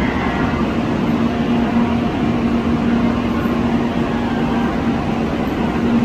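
Shinkansen bullet train noise: a steady, loud rumble with a constant low hum and no change in pace.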